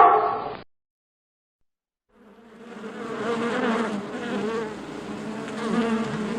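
Insects buzzing: a steady, droning hum that fades in about two seconds in and holds. Just before it, the end of a loud, falling animal call cuts off, followed by a gap of silence.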